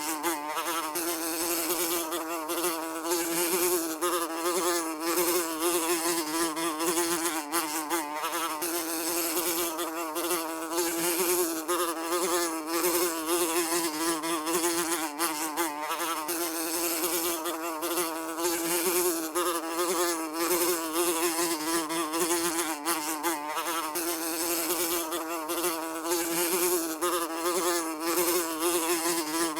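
A fly buzzing continuously: a steady drone that wavers slightly in pitch.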